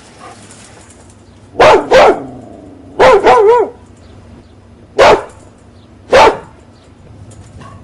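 A dog barking: two quick barks, then a short wavering yelp, then two more single barks about a second apart.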